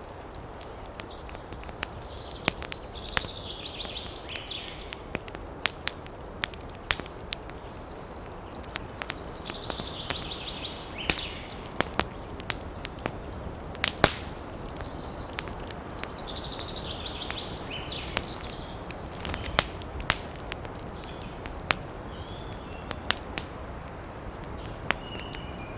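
Campfire crackling, with many sharp irregular pops over a steady hiss. A bird calls briefly three or four times.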